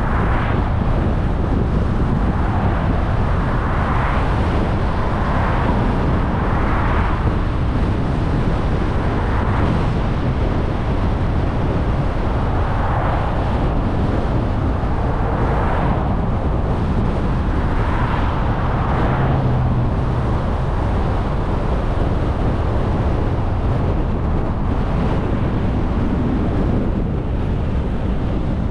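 A car driving along, with steady road and tyre noise and wind rushing past, swelling briefly several times.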